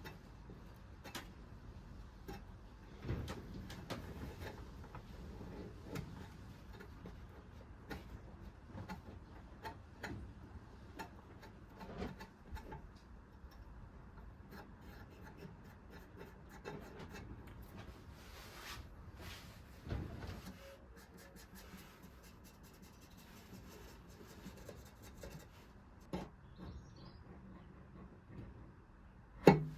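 Faint rubbing and scraping from hand work on the steel, broken by scattered light knocks and one sharp knock near the end.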